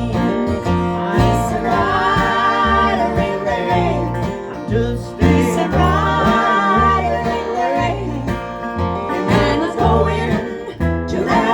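Acoustic country band playing an instrumental passage: double bass notes on a steady beat under guitar and banjo, with a gliding melody line on top.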